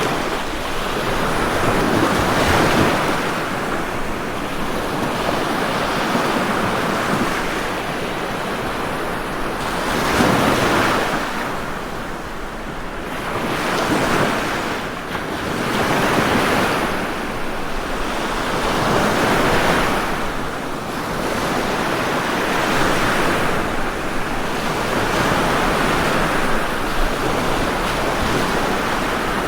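Ocean waves breaking and washing up on a shore, a steady surf that swells and ebbs every few seconds, loudest about ten seconds in.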